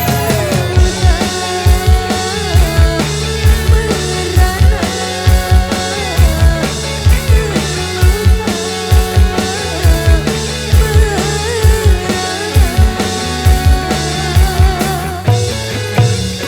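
Street dangdut koplo band playing an instrumental passage: a driving drum beat with a bass line and a bending melodic lead. It begins to wind down near the end.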